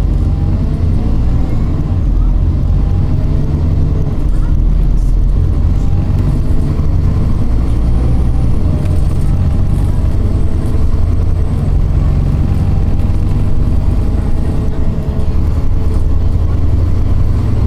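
Scania OmniCity city bus running on the road, heard from inside the passenger cabin: a steady low engine and drivetrain hum, with a fainter pitch that rises and falls again and again as the bus speeds up and slows.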